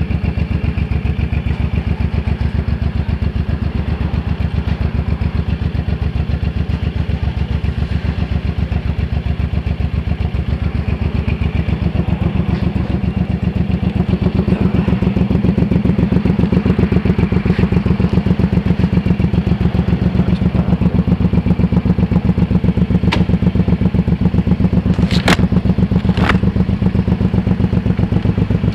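Suzuki C1800R's big V-twin idling with a steady, lumpy beat, growing a little louder about halfway through. A few sharp clicks stand out near the end.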